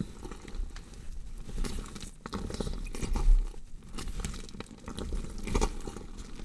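Horror sound effect of irregular crunching and chewing, with dense crackles over a low rumble.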